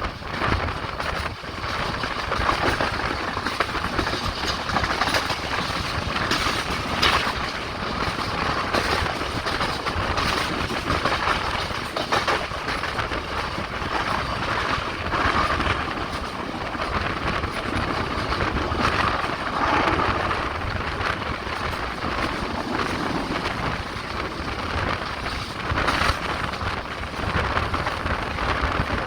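Passenger express train running at speed, heard from aboard: a continuous rumble and rush of air with frequent sharp clacks of the wheels over the rail joints.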